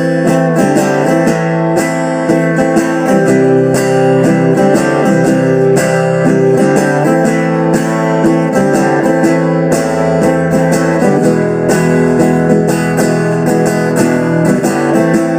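Guitar strumming chords in a steady rhythm during an instrumental passage of a blues-country song, with no singing.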